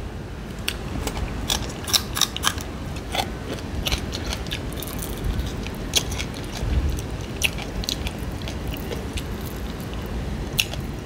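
Close-up chewing and crunching of fried bone-in fish, with irregular crisp clicks and smacks from the mouth.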